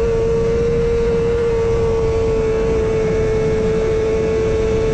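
Sport motorcycle engine held at high revs in sixth gear at about 195 mph: a steady high drone over heavy wind rush.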